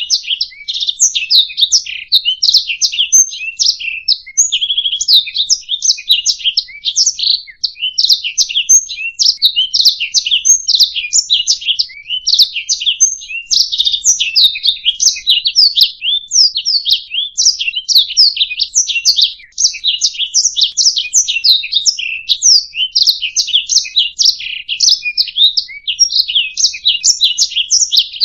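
Domestic canary singing a long, unbroken song of fast chirps, trills and rapid sweeping notes, many notes a second, with no pauses.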